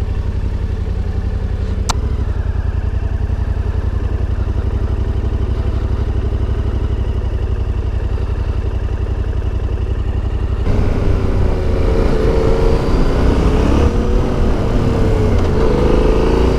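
Yamaha Ténéré 700's CP2 parallel-twin engine with Akrapovic exhaust running while riding. About eleven seconds in it gets louder, the revs rising and falling.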